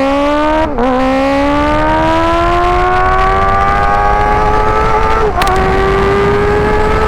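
2024 Kawasaki ZX6R inline-four running through an aftermarket IX Race exhaust under hard acceleration. Its revs climb steadily, dipping briefly at two upshifts, about a second in and after about five seconds.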